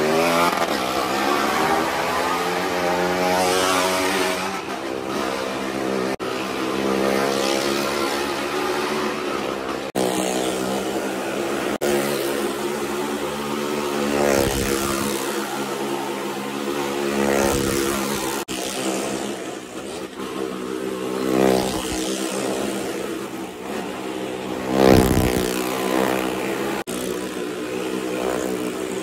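Motorcycle and car engines revving as stunt riders and a driver circle the wooden wall of a well-of-death pit, the engine pitch rising and falling with each lap, with louder swells near the end. The sound breaks off abruptly a few times.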